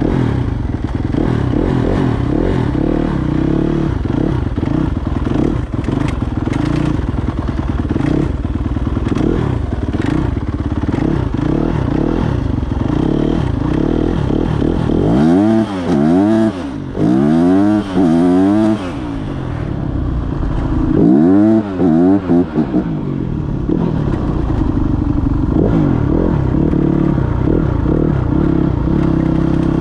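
Yamaha YZ250F single-cylinder four-stroke dirt bike engine running at a steady idle, revved in a series of quick blips about halfway through and a couple more a few seconds later.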